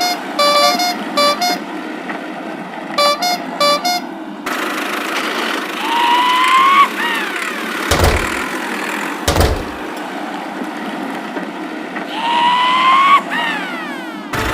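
Cartoon vehicle sound effects over a steady engine drone: a horn honking a quick run of short beeps, twice, then a rising whistle-like glide, two sharp thuds, and another rising glide near the end.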